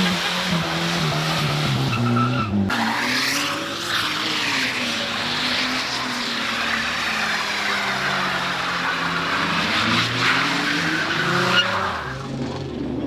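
A car drifting: tyres screeching continuously while the engine revs rise and fall.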